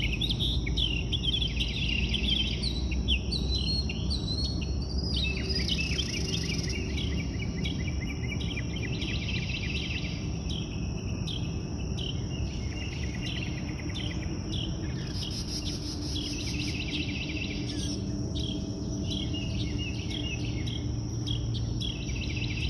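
Several wild birds singing and chirping in overlapping short, repeated calls and trills over a steady high insect trill, with a low background rumble.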